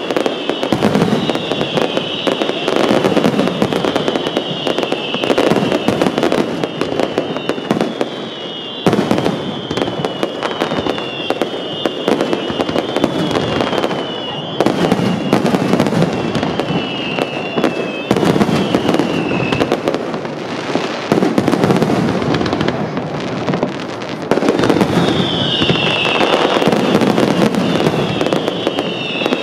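Aerial fireworks display: a dense, continuous barrage of shell bursts, bangs and crackling, with rapid high whistles falling in pitch through much of it. It lets up briefly a few times before the firing builds again.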